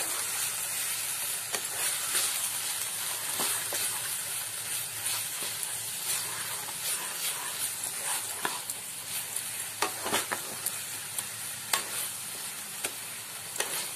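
Onion-and-ground-spice masala sizzling in mustard oil in a kadhai while a spatula stirs it, scraping the pan, with scattered knocks of the spatula against the pan. The spice powders are being fried into the masala.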